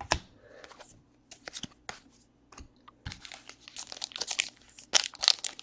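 Trading-card pack wrapper crinkling and tearing as it is opened, with cards being handled. Scattered crackles at first, growing denser and louder from about halfway through.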